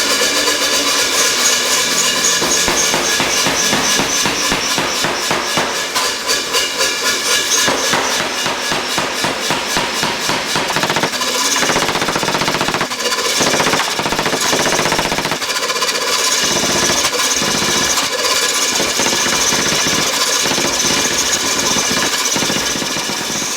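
Power hammer pounding hot steel in rapid, even blows, several a second, as a harrow tine is drawn out.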